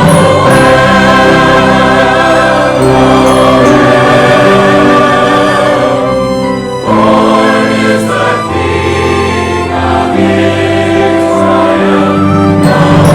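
Church choir singing with orchestral accompaniment in long, held chords. A brief break between phrases comes about six seconds in before the singing resumes.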